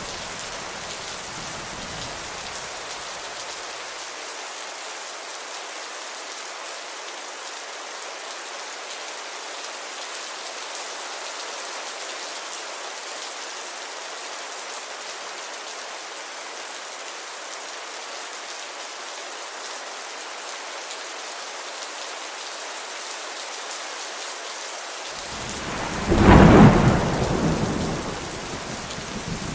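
Steady rain falling, an even hiss. A low rumble of thunder fades out over the first few seconds, and a loud clap of thunder rises about 26 seconds in and rolls away over the next three seconds.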